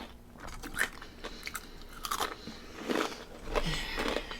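Close-miked biting and chewing of crispy fried chicken wings: a run of sharp, crackly crunches as the crust breaks, coming thicker near the end.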